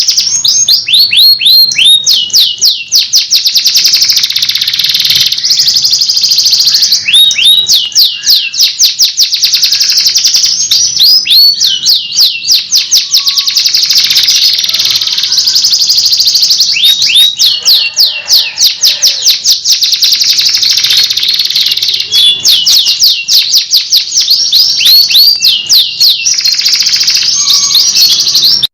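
Domestic canary singing a loud, unbroken song of rapid trills and runs of repeated notes that slide downward in pitch.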